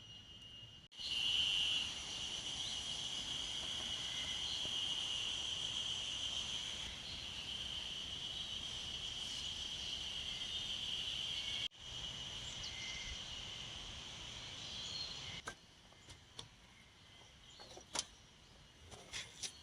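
Insects trilling steadily at a high pitch, broken off suddenly twice. A few sharp clicks or light knocks near the end.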